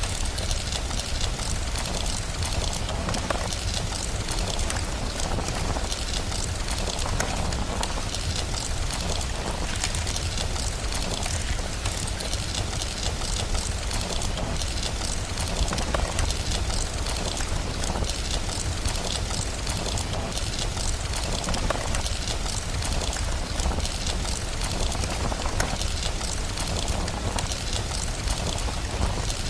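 Steady rain mixed with a crackling wood fire, with many small crackles over the rain and a constant low rumble beneath.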